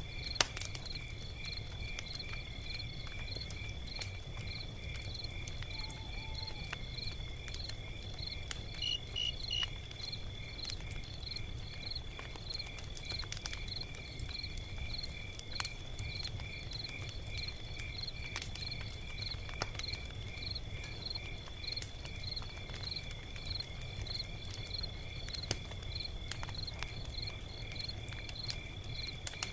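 Log fire crackling with scattered sharp pops, one loud pop just after the start, while crickets chirp steadily in the background, about two or three chirps a second.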